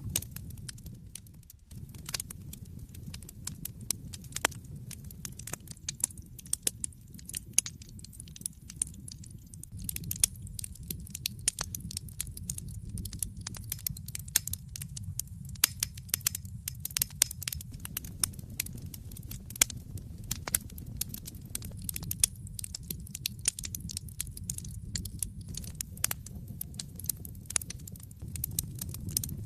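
Wood fire burning in a fireplace, crackling with many small, irregular sharp pops over a steady low rumble.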